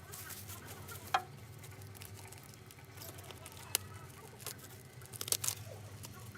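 A few sharp clicks and light knocks, one about a second in, one in the middle and a short cluster near the end, over a low steady hum.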